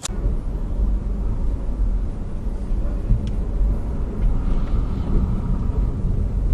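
A car driving, with a steady low rumble of engine and road noise and a single faint click about three seconds in.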